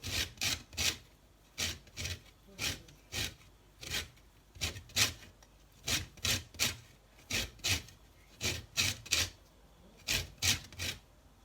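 Lemon being zested: the peel scraped against the zesting blade in short rasping strokes, about two to three a second, in runs with brief pauses.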